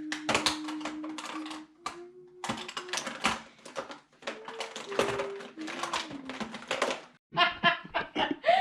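A woman's vocal cat impression: rapid, irregular mouth clicks over a low steady hum that now and then slides in pitch. Near the end it breaks into laughter.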